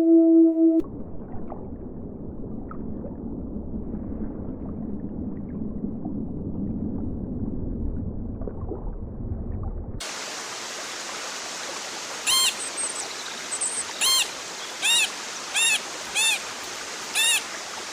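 A steady, low rushing noise like running water, then after a cut a brighter hiss with about six short, arched calls of an animal, likely a bird, repeated at intervals of under a second to about a second and a half. A held musical tone ends just under a second in.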